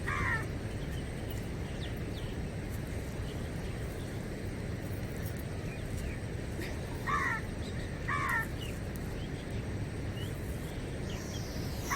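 Crow cawing outdoors: short, harsh single caws, one at the start, two about a second apart past the middle and another at the end, over a steady low background noise.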